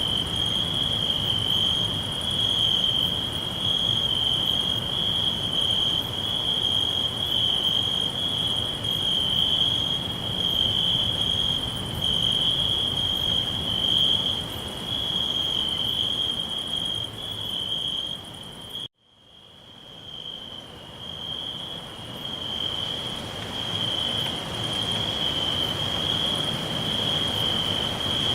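Crickets trilling in a steady, high, continuous chorus. About nineteen seconds in, the sound cuts out abruptly and then fades back in over a few seconds.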